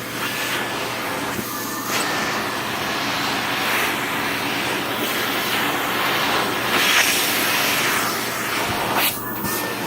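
Vacuum cleaner running with a steady rush of air as its covered nozzle is worked over a cat's fur, the noise shifting briefly about a second and a half in and again near the end.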